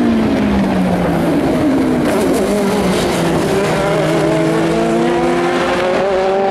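Endurance race car engine on track: its note drops in the first second or so as it slows, then climbs steadily over the last few seconds as it accelerates away.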